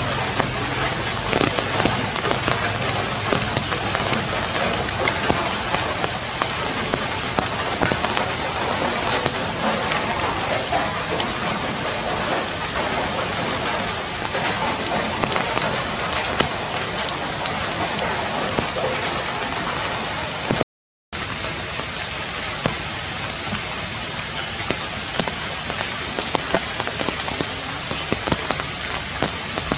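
Steady rain falling on forest leaves, a dense even hiss dotted with close drops ticking. It drops out completely for a moment about two-thirds of the way through.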